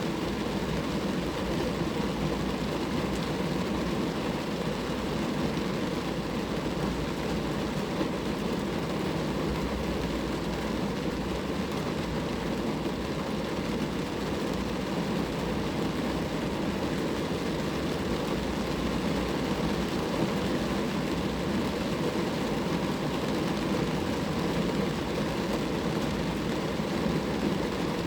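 Steady rain falling on a car, an even, unbroken patter and hiss of raindrops on the body with no distinct single drops or breaks.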